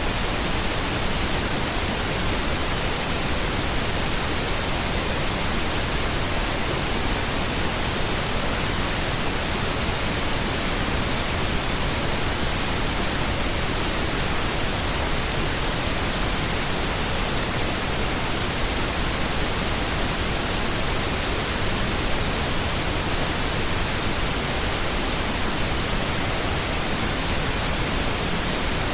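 Steady synthetic pink noise: an even, unchanging hiss across the whole range, like a constant ocean rush, with no breaks or changes.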